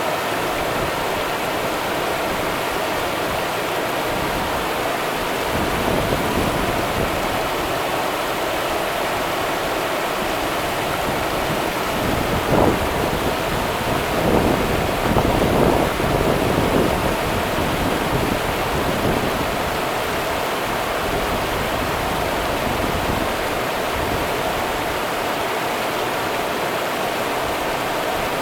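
Rio Grande river water rushing steadily, a dense even rush with a few louder surges around the middle.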